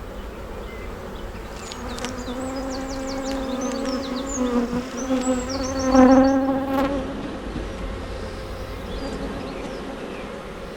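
Honey bees buzzing around an open hive. One bee's buzz swells as it comes close, loudest about six seconds in, then fades again.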